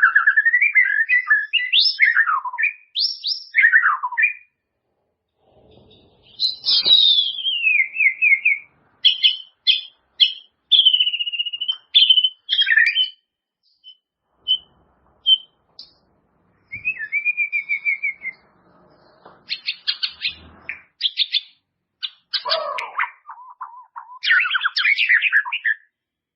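White-rumped shama (murai batu) singing: varied phrases of clear whistles, rapid trills and notes sliding up and down, broken by short pauses.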